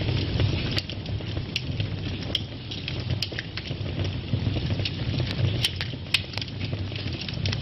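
Wood fire burning in a fireplace: a steady low rumble of flames with scattered sharp crackles and pops, several coming close together past the middle.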